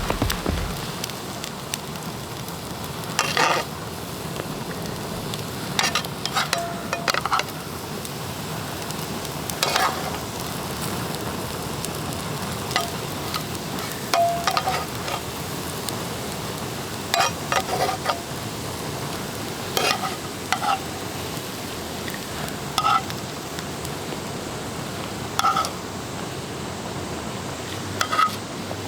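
Breakfast food frying and sizzling in a pan over a campfire, with a metal utensil clinking and scraping against the pan every few seconds.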